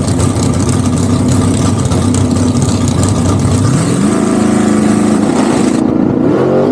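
Car engine idling, then its revs rise about four seconds in and hold at a steady higher speed, with more rising and falling revving near the end.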